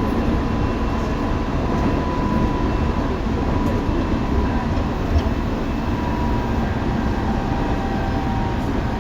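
Tobu 9050 series electric train running at a steady speed: a continuous rumble of wheels and running gear with a faint steady whine.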